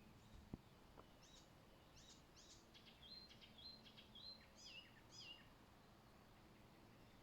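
Faint songbird singing one phrase of about four seconds: high chirps and downward-sweeping notes with a run of short repeated notes in the middle. A single sharp click comes just before the song.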